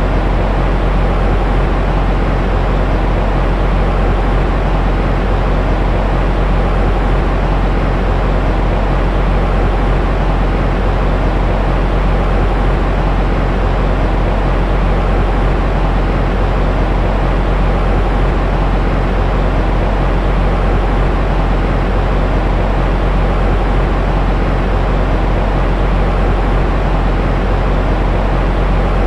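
Steady, unchanging noise for soothing a baby to sleep, heaviest in the low end so it sounds like a deep hiss or rumble rather than a bright one.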